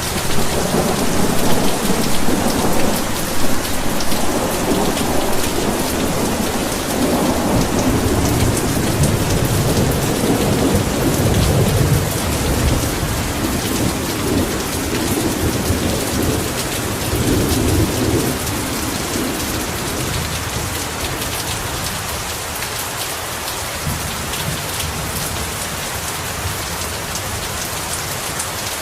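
Heavy rain falling steadily, with a long rolling rumble of thunder that swells at the start and dies away about two-thirds of the way through.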